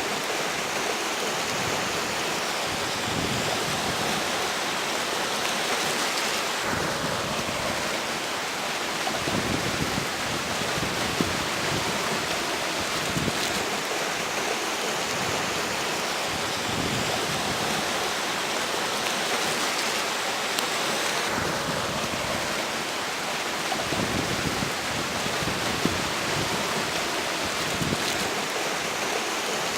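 Flowing river water, with strong wind gusting over it and buffeting the microphone in irregular low rumbles.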